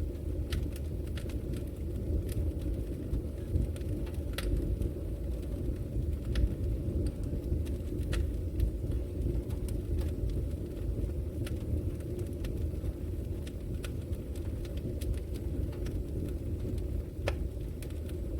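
Wood fire burning in a fireplace: a steady low roar of flames with irregular sharp crackles and pops, a couple of them louder.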